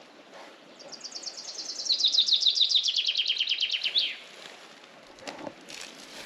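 A songbird sings one song of about three seconds: a fast run of high, evenly repeated notes that drops to a lower run partway through and ends in a quick flourish.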